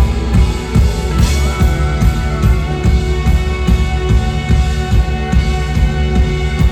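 A rock band playing live in an instrumental passage with no vocals: a steady drum-kit beat under bass and electric guitar, with a guitar note sliding up about a second in.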